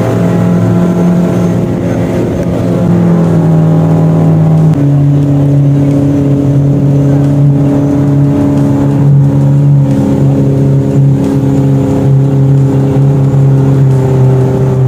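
Outboard motor of a tour boat running steadily, its pitch shifting as the throttle changes about three and five seconds in, then holding even.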